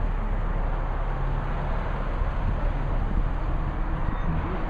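The 3.5-litre V6 of a 2006 Infiniti G35 Coupe idling steadily, with an even hiss over it.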